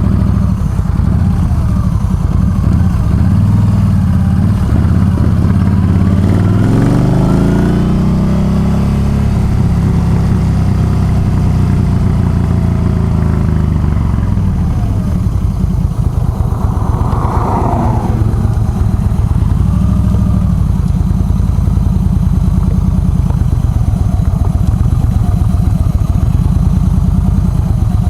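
Yamaha V Star 1300's V-twin engine running under way, its pitch rising as it accelerates about six to ten seconds in. A brief higher-pitched sound comes near the middle.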